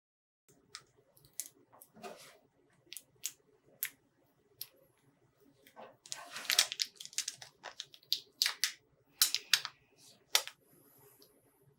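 Hand work with vinyl decal sheets and transfer tape: a run of sharp clicks and snaps, with a longer stretch of rustling about six seconds in.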